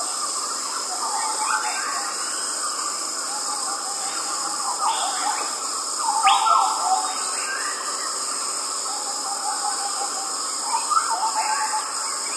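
Forest crickets trilling in a steady, high-pitched chorus, with birds calling over it in short sliding whistled notes. The bird calls are loudest about six seconds in.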